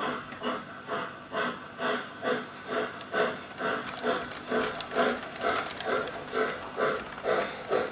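Steam-locomotive chuffing from a Jouef 231 K model locomotive: a steady rhythm of hissing exhaust beats, a little over two a second.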